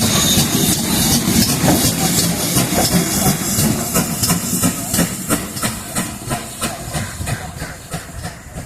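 GWR Modified Hall 4-6-0 steam locomotive moving, with a steady steam hiss and a regular beat of clicks about three a second, growing fainter toward the end.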